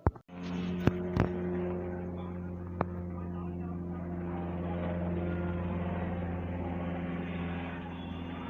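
UH-60M Black Hawk helicopter running, a steady low hum with several even tones. It starts abruptly, with a few sharp clicks in the first three seconds.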